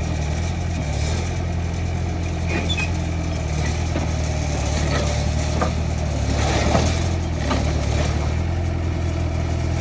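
Heavy-equipment diesel engine running steadily at low revs, with a few short metallic knocks now and then.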